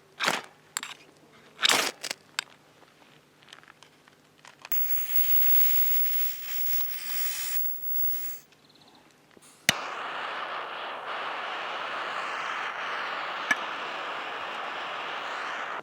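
Sharp crackles and clicks of handling near the fire, then, after a sharp click about ten seconds in, meat sizzling steadily on a hot grill over a camp fire until it cuts off at the end.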